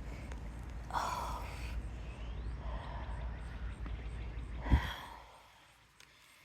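Breathy exhales and rustling handling noise from hand-digging potatoes out of a grow bag over a low rumble. About three-quarters of the way in comes one sharp, loud thump, after which the rumble stops and it goes much quieter.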